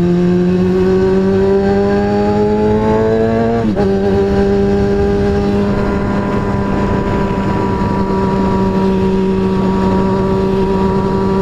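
2003 Kawasaki ZX-6R 636 inline-four engine running under way, its pitch climbing slowly for the first few seconds, then dropping abruptly about four seconds in before holding nearly steady at a cruise.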